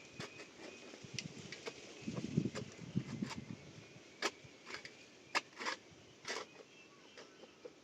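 Irregular sharp clicks and knocks, with a few duller thuds about two to three seconds in.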